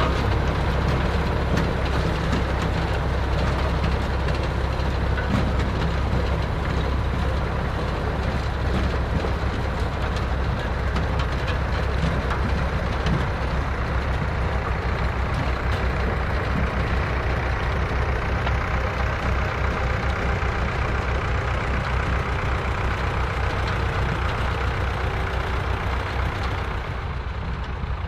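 Tractor engine running steadily under load in the field, a deep rumble with a rattly mechanical noise over it, a little quieter near the end.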